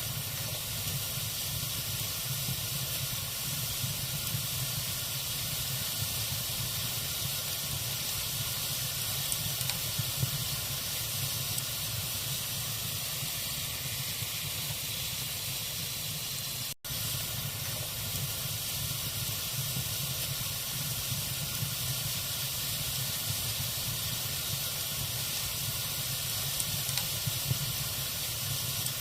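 Log fire burning in a fireplace: a steady hiss with a few faint crackles from the logs. The sound drops out for a split second about two-thirds of the way through.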